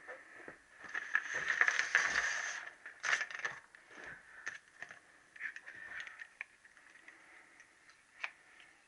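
Hands handling small engine parts: a scraping rustle about a second in, followed by scattered light clicks and small knocks.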